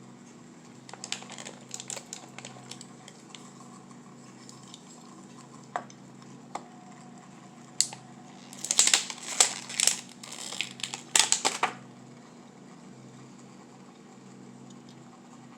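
Die-cast toy cars being handled and set on a display spinner: scattered light clicks, then two bursts of sharper clicking and clattering in the second half.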